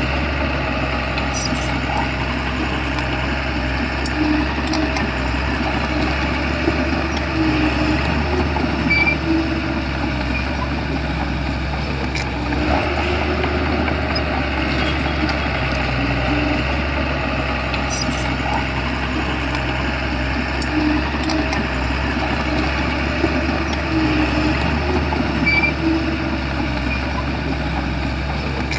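A Shantui bulldozer's diesel engine running steadily under work, a constant low drone with a few faint clicks and knocks over it.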